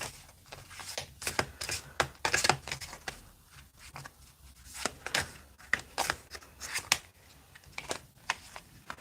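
Tarot cards being shuffled and handled: irregular quick snaps and papery swishes.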